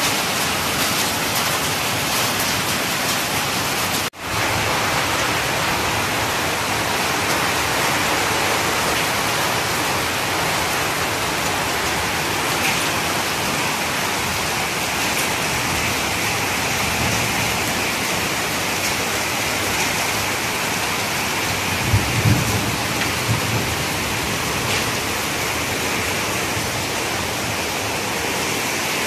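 Heavy downpour: a steady hiss of rain falling on roofs, leaves and paved ground. There is a brief gap about four seconds in, and a few short low thumps about three-quarters of the way through.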